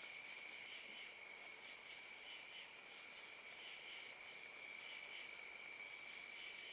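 Crickets and other night insects chirping steadily, several at different pitches, faint.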